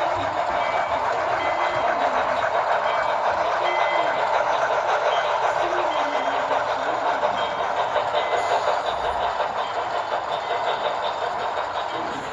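Two HO scale model locomotives with Tsunami 2 sound decoders playing their locomotive sounds through small onboard speakers as the double-headed train runs along the track, with steady running noise from the wheels on the rails. The sound eases off slightly near the end.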